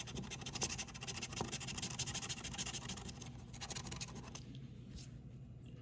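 Rapid scraping of the latex coating off a lottery scratch-off ticket, many quick strokes that stop about four seconds in.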